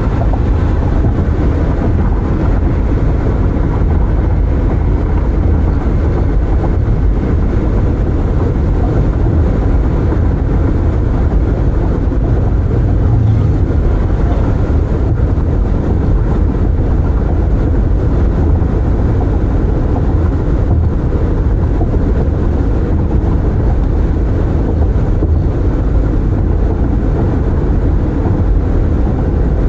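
Steady low road rumble of a car driving at speed, tyre and wind noise heard from inside through open windows.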